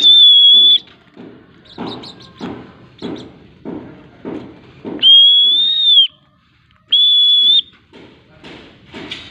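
Three long, steady, high whistle notes, the middle one the longest with a slight rise and fall in pitch: a recall whistle used in free-flight training of a lovebird. Between the notes there are softer sounds repeating about every half second.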